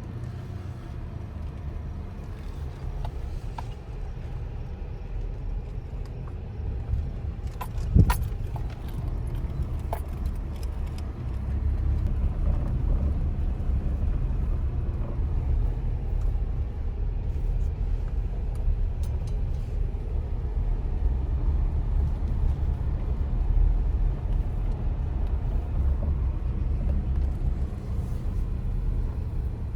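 A vehicle driving, with a steady low rumble and scattered rattles and knocks. There is one sharp jolt about eight seconds in, and the rumble grows louder about twelve seconds in.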